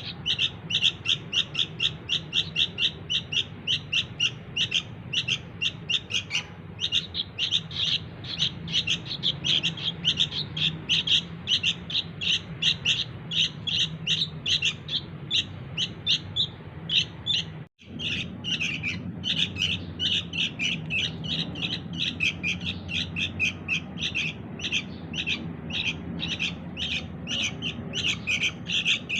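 Sooty-headed bulbul chicks calling nonstop: a rapid, even string of short high chirps, about three a second, broken once by a brief gap about two-thirds of the way through.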